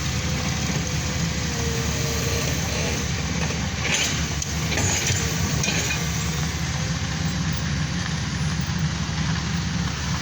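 A diesel or motor-vehicle engine running steadily with a low rumble, with a few short clicks about four and five seconds in.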